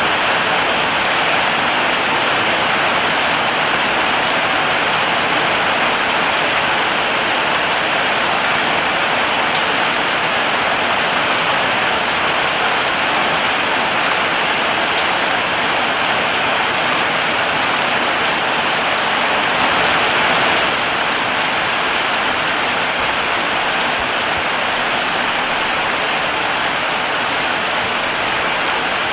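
Heavy rain falling steadily, a dense even hiss of drops, easing very slightly about two-thirds of the way through.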